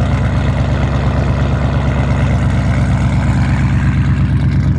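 Car engine and exhaust running steadily with a deep, even drone.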